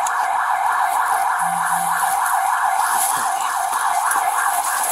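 Emergency vehicle siren wailing continuously with a fast warble.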